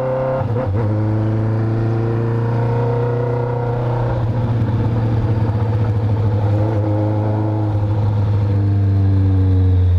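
Honda CB650F's inline-four engine, breathing through an Atalla full stainless-steel exhaust, running at a steady, nearly even pitch. It grows a little louder toward the end.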